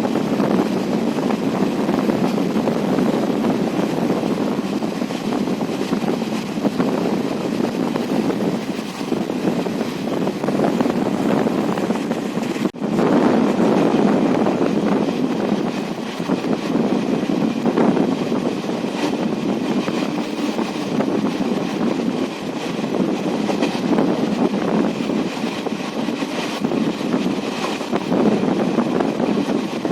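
Passenger train running, a steady rumble of coaches on the rails with wind across the microphone, broken by a brief dropout about thirteen seconds in.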